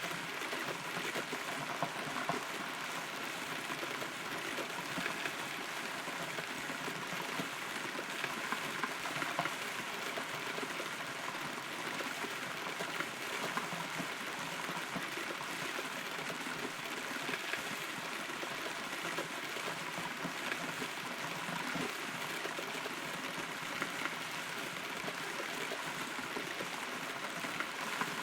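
Steady rain heard from inside a hollow rotten tree, a dense patter of many small drops striking the wood and leaves.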